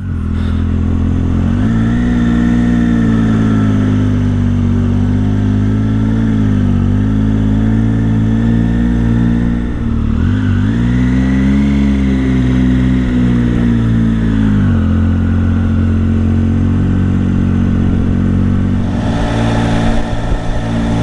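Triumph Tiger 800's inline-three engine under way. Its revs rise about two seconds in, dip briefly twice, climb again, then drop at about fifteen seconds and hold steady.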